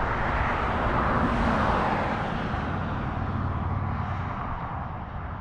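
A passing vehicle: a rushing noise that swells to its loudest about a second or two in, then slowly fades away.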